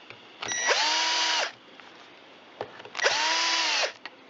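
Cordless drill-driver run in two short bursts, each about a second, its motor whine rising as it spins up and dropping as it stops, driving screws a little at a time.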